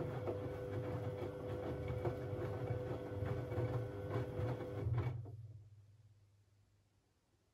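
Siemens Siwamat 6143 washing machine's drum motor running with a steady hum and light clicks during a boil wash, then cutting out about five seconds in, a low hum dying away over the next second as the drum coasts to rest: the pause in the wash rhythm between drum turns.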